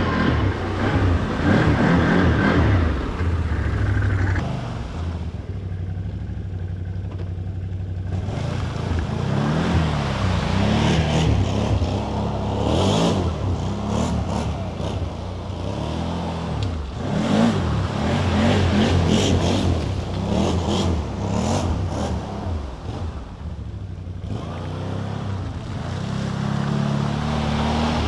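Can-Am off-road vehicle's engine revving up and down again and again as it works through mud and standing water, with bursts of splashing and clatter.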